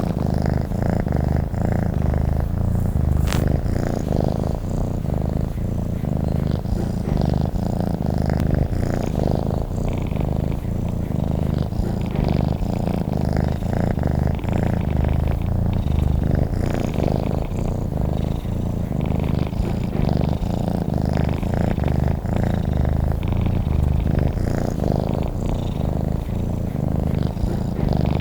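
Domestic cat purring steadily and continuously, a low rumble with a fast even pulse.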